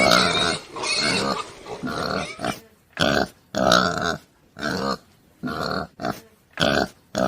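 Domestic pig grunting in a run of short calls, close together at first, then coming one by one with short pauses between them.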